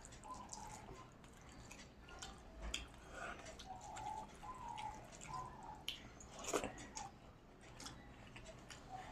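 Faint eating sounds, soft wet chewing and lip-smacking clicks, with one louder click about six and a half seconds in. A bird's short call repeats every second or so in the background.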